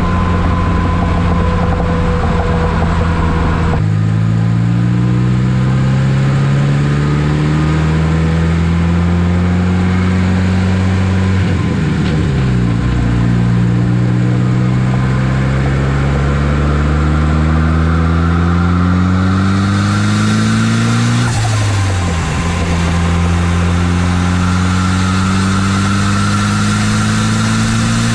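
Turbocharged Cobalt SS engine with a ZFR turbocharger pulling hard through the gears. The engine note climbs steadily in pitch three times, dropping sharply at the two gear changes, about 12 and 21 seconds in. A hiss grows in over the last third.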